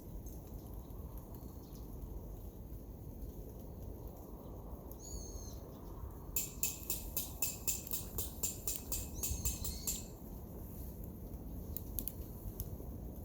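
Wild birds calling over a steady low outdoor rumble: a short gliding high call about five seconds in, then a fast run of sharp high notes, about five a second, lasting some four seconds.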